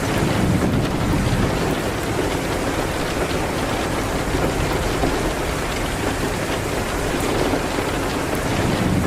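Steady rain hitting a window, with a low rumble of thunder in about the first second and a half.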